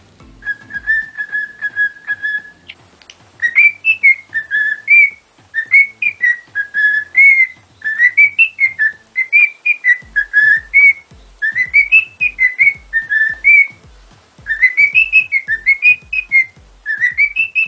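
Whistled tune: a held whistle note, then a quick warbling melody of rising and falling notes. A steady low beat joins about ten seconds in.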